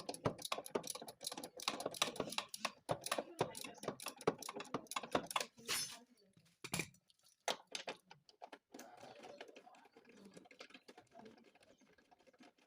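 Hand tools clicking and clattering against metal in a rapid, irregular run for about six seconds, then a few single clicks.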